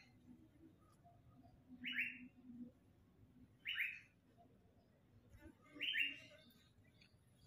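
A bird calling three times, short calls about two seconds apart.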